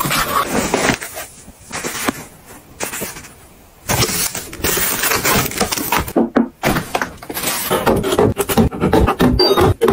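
Plastic packaging rustling and crinkling, with clicks and light knocks of items being handled and set down in storage, quieter for a moment about three seconds in.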